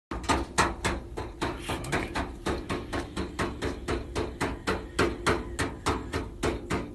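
Regular sharp knocking, about four knocks a second, over a low steady hum.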